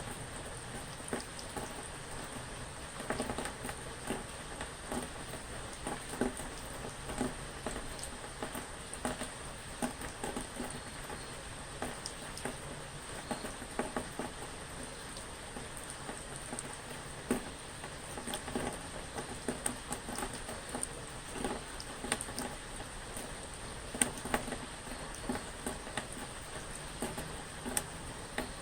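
Steady rain, with many irregular, louder single drops ticking on a surface through the steady patter.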